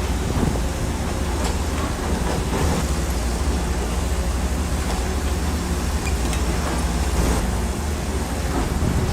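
Bulldozer's diesel engine running steadily, with a few light metallic clanks.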